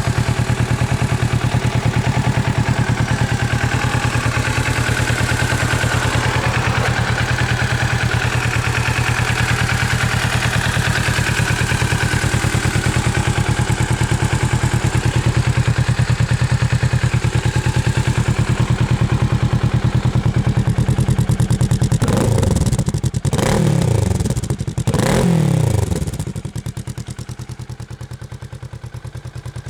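Kawasaki Ninja 650's parallel-twin engine idling steadily through a Trick Star Ikazuchi aftermarket exhaust, then blipped twice in quick succession, each rev rising and falling back. After the second blip the engine sound drops away and is much quieter.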